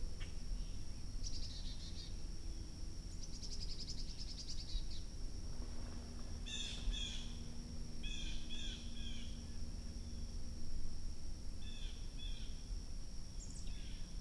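Outdoor ambience with birds calling: two short buzzy trills early on, then several groups of quick repeated chirps about halfway through and again near the end. A steady high-pitched whine and a low rumble run underneath.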